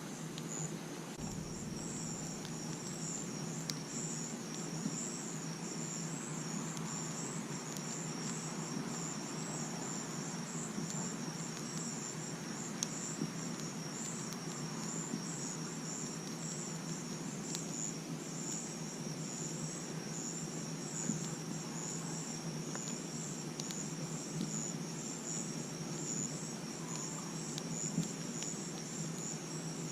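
Crickets chirping in a continuous fast, pulsing trill, over the low hiss of a campfire with a few sharp crackles.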